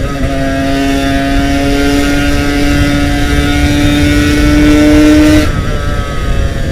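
Yamaha RX-King's 135 cc two-stroke single-cylinder engine pulling under throttle while riding, its note climbing slowly. About five and a half seconds in, the note drops off. A low rumble of wind noise runs underneath.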